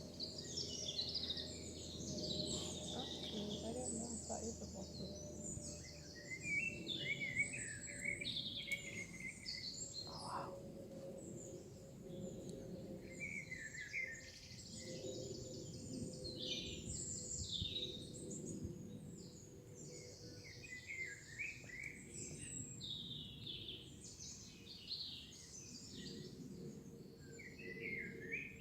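Several woodland songbirds singing, overlapping short varied phrases and chirps, over a faint low background rumble with a steady hum.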